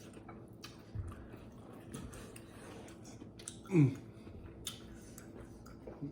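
Chewing and eating sounds with scattered small clicks. About four seconds in there is one short, louder vocal sound whose pitch falls.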